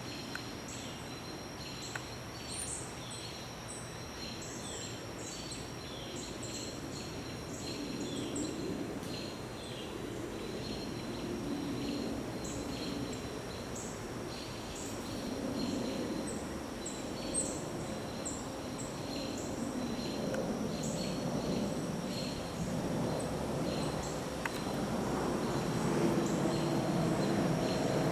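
Woodland birds chirping with many short, repeated high calls over a steady high insect drone. A low rumble builds over the last few seconds.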